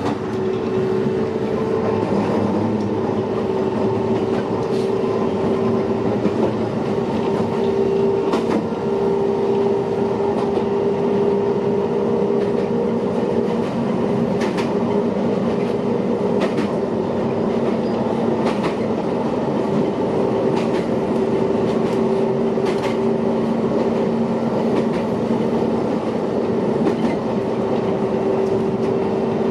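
Shintetsu electric commuter train heard from inside the passenger car, climbing the steep grade towards Suzurandai: a steady running hum with two held tones. Wheels click over rail joints at roughly two-second intervals, most plainly in the second half.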